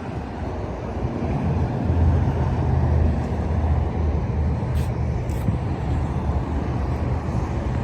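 A car's engine running with a steady low rumble that swells about two seconds in, with two faint short ticks near the middle.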